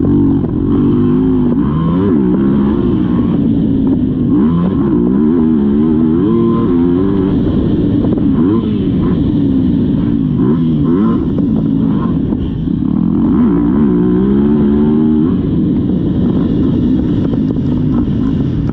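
Motocross bike's engine, revving hard and backing off over and over as it rides the track, its pitch climbing and falling every second or two.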